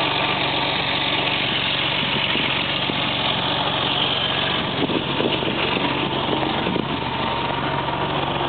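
BMW E34 M5's straight-six engine idling steadily.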